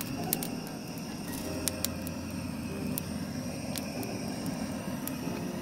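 Butane gas torch blowing a steady flame onto firewood to light it, with a few sharp clicks over the hiss.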